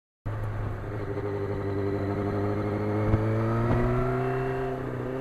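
1991 Yamaha FZR's inline-four engine under way, cutting in suddenly. Its pitch climbs steadily for about three seconds as the bike accelerates, then eases off slightly, over a steady low rumble, with a single sharp click about three seconds in.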